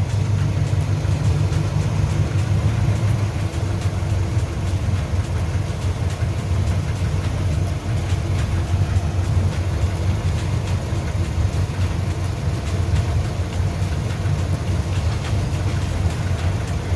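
Car engine idling steadily, a continuous low drone.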